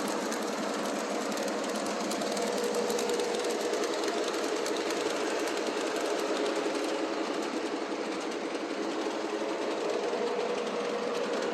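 Model GG1 electric locomotive running along the track with its train: a steady motor whine with a fast patter of wheel clicks.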